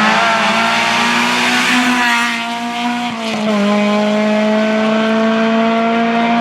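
Rally car engine at full throttle, its pitch climbing and dropping sharply at gear changes about two and three seconds in, then held high and steady.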